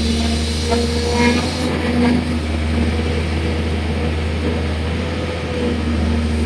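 Excavator's diesel engine running steadily, a low drone with a steady hum over it, with a hiss on top for roughly the first second and a half.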